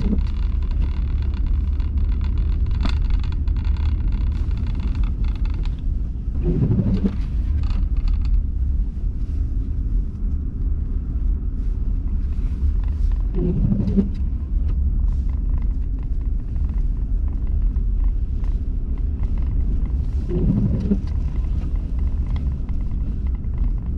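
Car cabin road rumble while driving on snowy streets: a steady low drone, with a short sweeping sound about every seven seconds.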